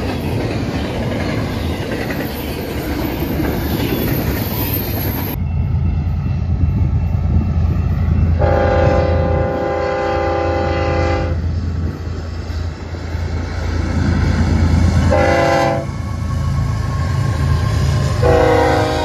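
Double-stack intermodal train rolling past close by, a steady rush of wheel and car noise. Then BNSF diesel locomotives approach with a low engine rumble and sound the air horn: a long blast about halfway through, a short blast, and another starting near the end.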